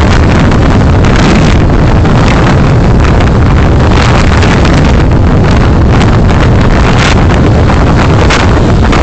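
Steady, loud rumble of road and wind noise from a moving car, picked up by its dashcam microphone.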